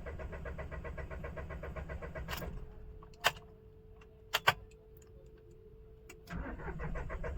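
Mahindra Bolero Neo's three-cylinder diesel being cranked by the starter in a long, even rhythm that fails to catch and stops. After a few clicks and a faint steady tone, cranking begins again near the end. The long cranking is a hard start linked to a stored rail pressure sensor 'signal high' fault (P0193).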